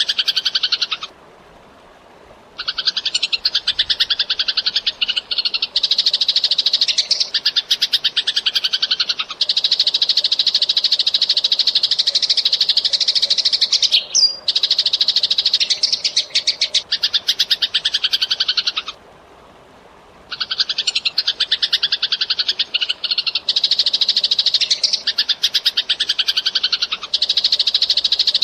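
Eurasian tree sparrow chatter: long runs of fast, tightly packed chirps. They break off twice for about a second and a half, once near the start and once about two-thirds of the way through.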